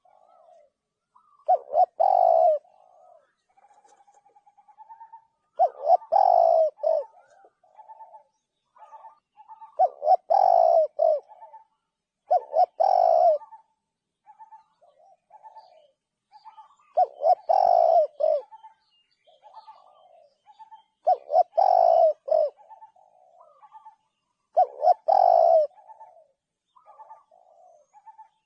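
Spotted dove cooing: a phrase of loud coos roughly every four seconds, seven in all, with softer short notes between them.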